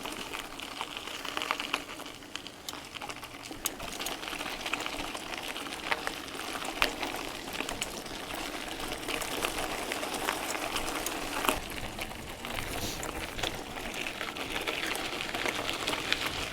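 Bicycle tyres rolling over a stony gravel track: a steady crackle of grit under the tyres, with irregular sharp clicks of stones flicked and crunched.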